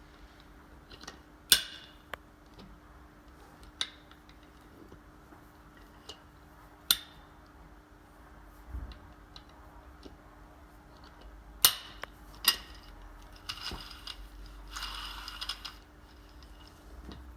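Small metal parts clinking: several separate sharp clinks that ring briefly, then a short rattling scrape near the end, over a steady faint hum.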